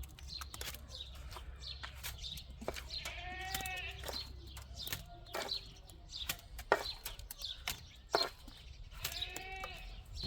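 Livestock bleating: two long bleats about five seconds apart, with scattered sharp knocks and short high chirps between them.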